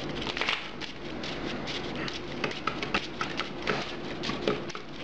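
Pokémon trading cards being handled and shuffled by hand: a run of quick, irregular light clicks and flicks of card against card.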